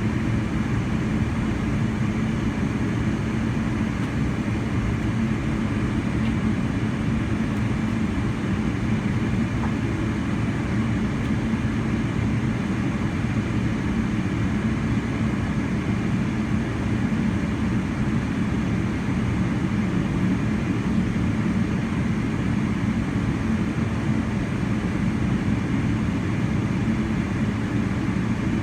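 Steady, unchanging drone of a Boeing 777-300ER heard from inside the passenger cabin: engine and airflow noise, deepest and strongest in the low range.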